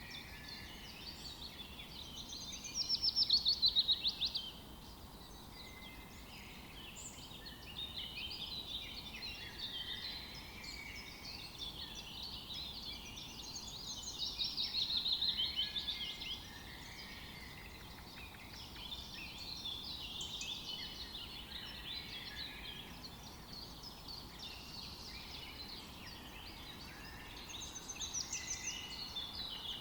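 Several songbirds chirping and singing over one another, with louder rapid trilled phrases about three seconds in, midway, and again near the end, over a faint steady outdoor hiss.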